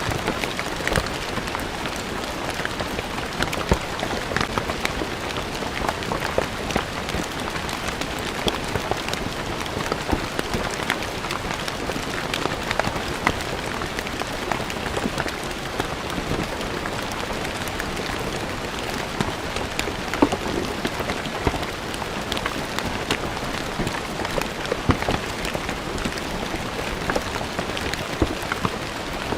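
Steady rain falling on stone paving, a dense hiss with many individual drops pattering and splashing sharply on the hard surface.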